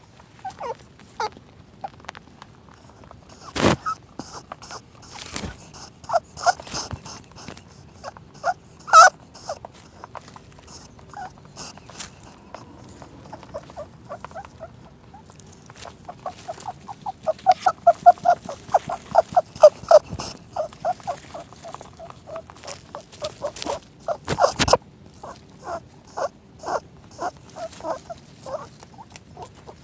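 Animal calls: runs of short, quick, repeated calls, densest about two-thirds of the way in, with a few sharp knocks or clicks between them.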